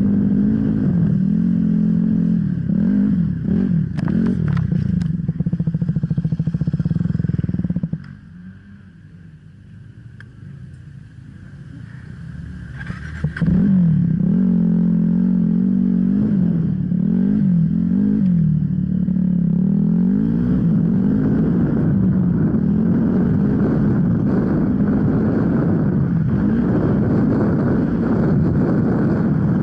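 Off-road enduro motorcycle engine running under changing throttle, its pitch rising and falling. About eight seconds in it falls much quieter for some five seconds, then comes back loud and carries on revving up and down.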